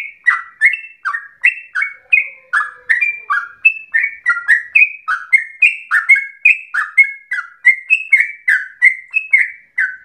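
Yellow-vented bulbul (trucukan) singing a long unbroken run of bubbly, liquid chirped notes, about three a second.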